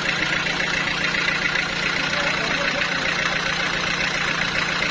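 Sawmill machinery running steadily: an even, unbroken mechanical noise with a constant low hum.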